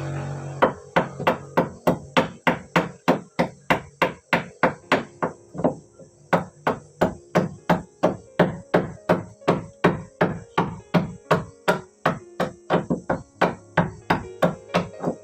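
A hammer striking in a steady, fast rhythm, about three blows a second, in a long unbroken run.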